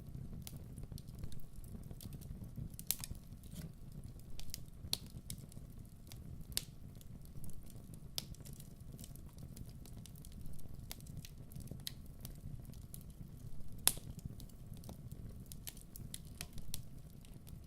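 Wood fire burning with a steady low rumble and irregular crackles and pops; one sharper pop stands out near the end.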